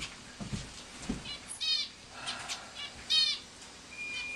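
Pet bird calling: two short, shrill chirps, one a little under two seconds in and a louder one about three seconds in. A couple of soft low knocks come before them.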